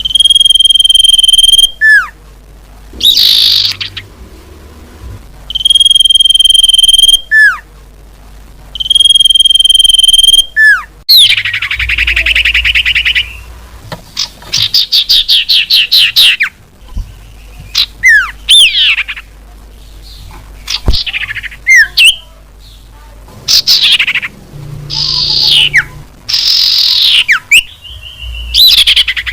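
Recorded lure call of an iora (cipoh) played loud. It opens with three long, level whistles, each ending in a quick falling note. These are followed by a buzzy trill and bursts of fast, chattering downslurred notes.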